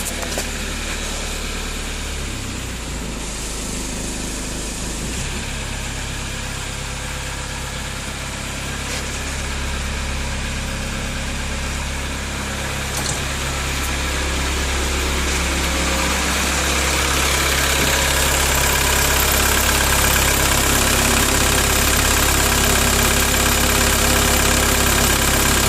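VW Passat B3's 1.9 turbo-diesel engine idling just after starting, with a steady diesel clatter. It grows louder and harsher over the second half. It runs hard, which the owner notes as 'жестко' (harsh).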